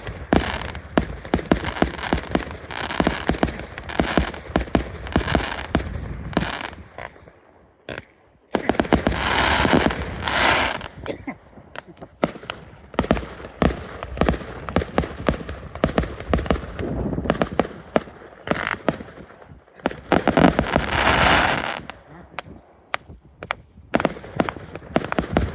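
Fireworks going off in rapid succession, with many sharp bangs and pops. Twice there are longer stretches of dense crackling hiss, one about a third of the way in and one near the end.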